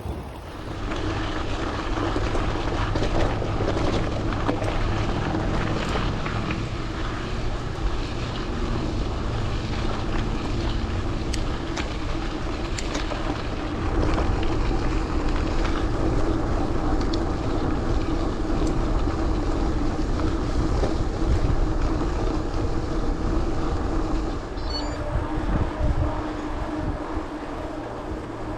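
Gravel bike rolling along at speed, with steady tyre noise from its Teravail Sparwood tyres and wind rushing over the camera microphone.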